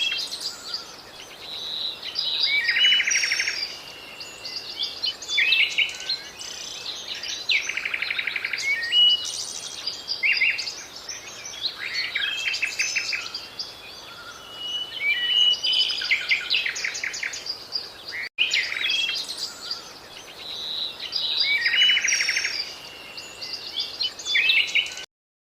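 Songbirds singing: a mix of chirps, whistled trills and buzzy rattling notes. It breaks off for an instant about two thirds of the way through and stops abruptly just before the end.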